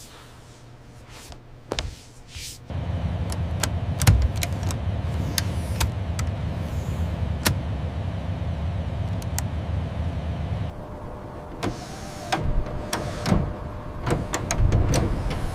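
A small electric motor starts a few seconds in and runs steadily for about eight seconds with scattered clicks, then stops, followed by irregular knocks and clanks of metal work.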